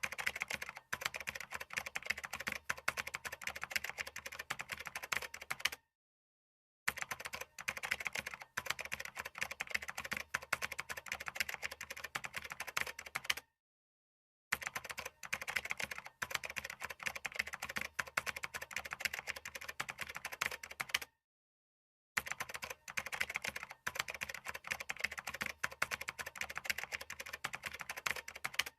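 Computer keyboard typing: fast, continuous runs of key clicks, each run about seven seconds long, broken three times by a second or so of dead silence.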